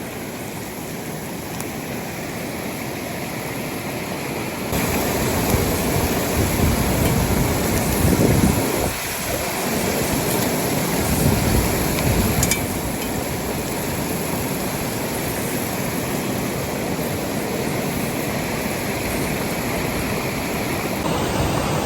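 Steady rushing of a waterfall, louder from about five seconds in.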